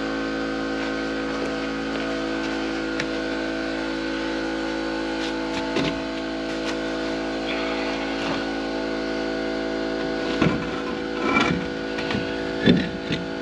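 A steady mechanical hum runs throughout. Near the end come a few short clunks and brief rattling bursts as a truck wheel is bolted on.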